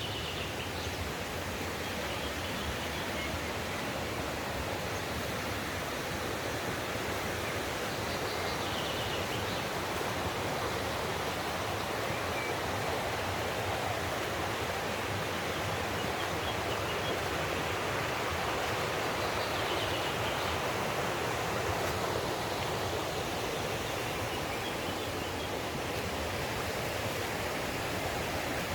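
Mountain stream flowing steadily, a continuous rush of running water.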